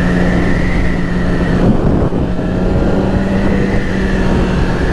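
2008 Yamaha R6's inline-four engine running at a steady speed under riding wind rush; its tone breaks briefly about two seconds in, then carries on.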